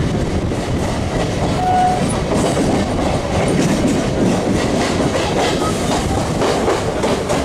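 Train wheels clattering over the rail joints as the train runs through a station, heard from aboard with wind rushing past.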